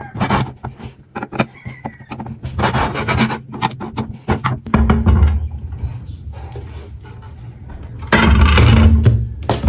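Workshop work noises: a run of knocks, clatters and scraping, then a power tool motor running in two short bursts, the second about a second and a half long.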